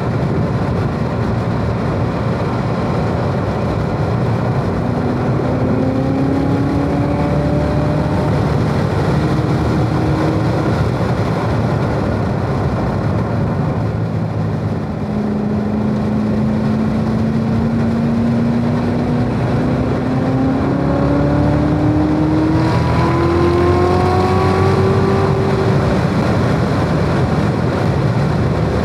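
Corvette Z06's supercharged V8 heard from inside the cabin at track speed in third gear, over steady wind and tyre noise. Its note rises in pitch as it accelerates out of corners, briefly around 5 s in and again in a longer climb from about 15 s to 26 s.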